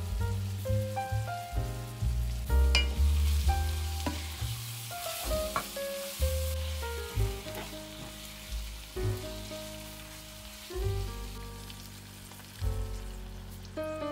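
Food sizzling as it fries in a pan, loudest in the first half, with a few light clicks. A melodic background music track with bass notes plays throughout.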